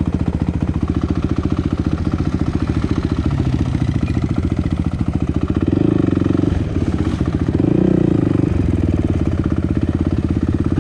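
Dirt bike engine running at low speed with an even, rapid firing beat, opening up briefly about six seconds in and again about eight seconds in.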